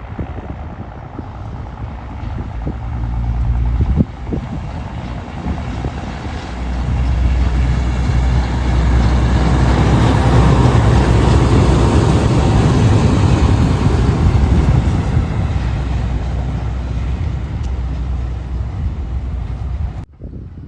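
WM-15Ak motor draisine (track maintenance trolley) with a platform wagon pulling away and passing by: engine running and wheels rumbling on the rails, growing louder to a peak about halfway, then easing off. There is a single sharp click about four seconds in, and the sound cuts off abruptly just before the end.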